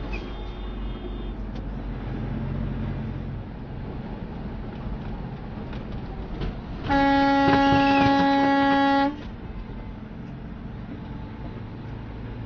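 A vehicle horn sounds one steady blast of about two seconds, about seven seconds in, over steady road and engine noise.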